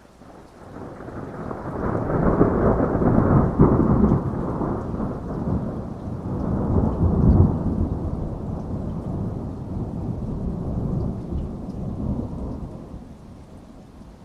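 A long roll of thunder over steady rain: the rumble builds over the first two seconds, peaks twice, at about three and seven seconds in, then dies away near the end.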